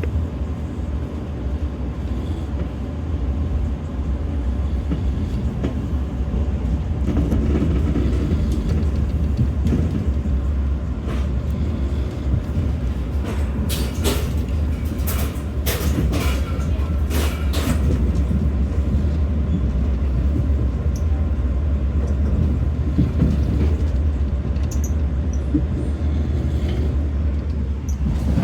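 Passenger train running, a steady low rumble, with a cluster of sharp clicks about halfway through.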